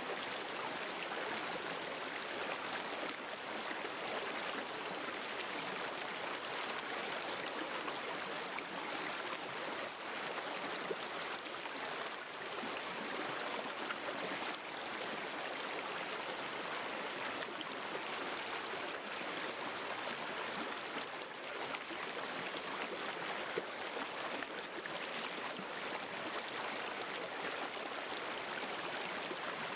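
River water flowing over stones in a steady babble.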